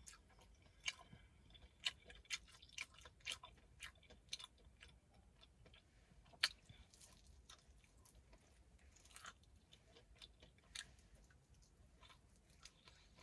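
Chewing fried chicken close to the microphone: faint, irregular wet mouth clicks and small crunches, with one sharper click about six seconds in.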